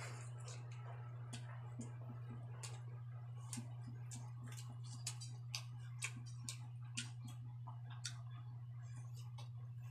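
Close-up eating sounds: a person chewing a mouthful of rice and adobo pork innards with wet lip smacks and mouth clicks, irregular, one to three a second, over a steady low hum.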